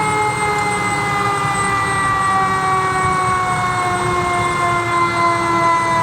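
Fire engine's mechanical siren slowly winding down, its pitch falling steadily over several seconds, over the rumble of the truck.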